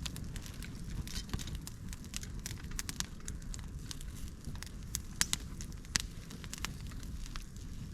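Dry chopped bamboo, twigs and leaves burning in a campfire stand, crackling with irregular sharp pops over a low steady rumble.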